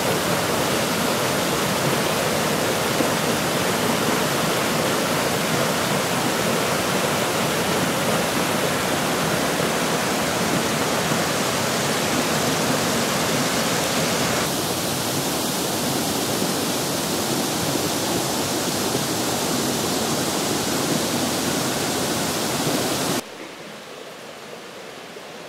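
Steady rushing of the Jacob Fork's water cascading over granite into pools above High Shoals Falls. The sound changes slightly about halfway through, then drops abruptly to a quieter rush near the end.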